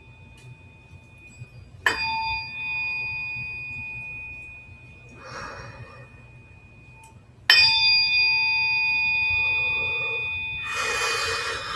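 A small struck metal instrument rings twice, about two seconds in and again more loudly about five and a half seconds later. Each ring is a clear high tone with bright overtones that fades slowly. Brief soft noisy sounds come between the rings and near the end.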